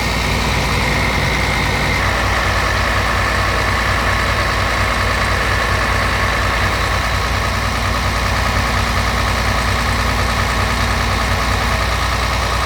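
Scania R tractor unit's diesel engine idling steadily, its tone shifting slightly about two seconds in.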